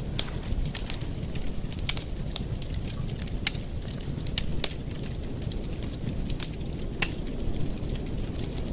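Campfire burning: wood crackling with sharp, irregular pops over a steady low rush of the flames.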